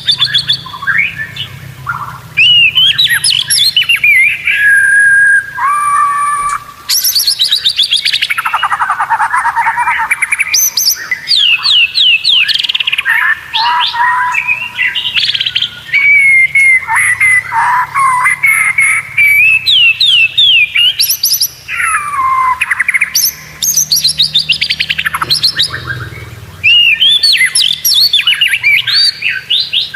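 White-rumped shama (murai batu) singing a long, varied song of fast rattling trills, chattering notes and clear whistled phrases, loud and nearly continuous with only brief pauses.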